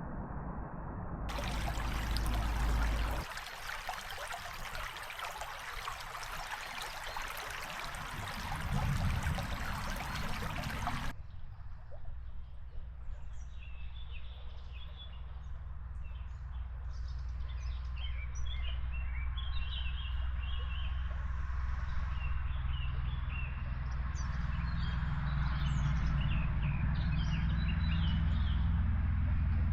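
Loud, even rushing noise for several seconds, then birds chirping and twittering over a low steady rumble that grows a little louder near the end.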